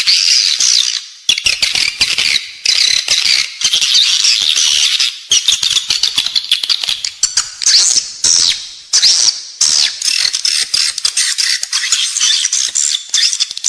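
Edible-nest swiftlets twittering: a dense run of rapid high chirps and buzzy trills with brief breaks, the recorded swiftlet call played inside nesting buildings to lure the birds in.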